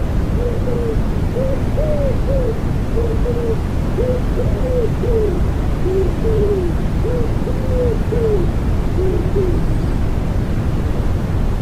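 Common wood pigeon cooing, a run of short soft notes in repeated phrases that stops near the end, over a steady hiss of white noise mixed with rain.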